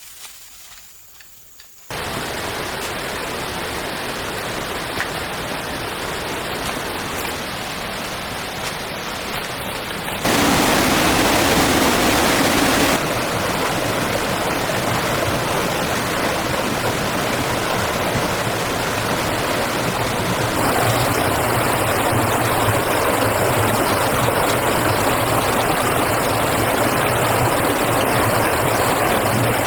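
Steady rushing water noise that starts suddenly, jumps louder about ten seconds in, and shifts again at about thirteen and twenty seconds.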